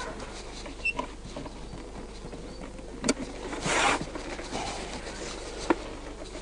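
Wooden beehive parts being handled as the hive is closed up: a few light knocks and a brief scrape about midway.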